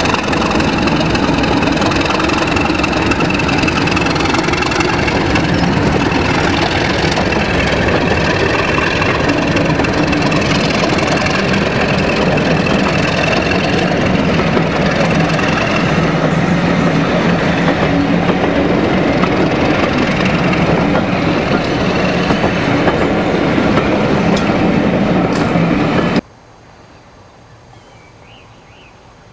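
Diesel locomotive running, loud and steady. Near the end it cuts off abruptly to a much quieter background.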